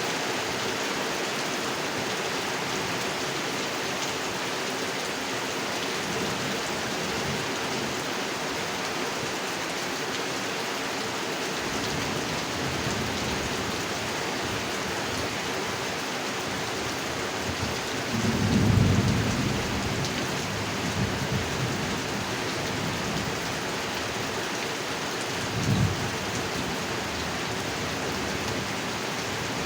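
Heavy rain falling steadily on a pond, with a low rumble of thunder about two-thirds of the way in and a shorter, fainter rumble near the end.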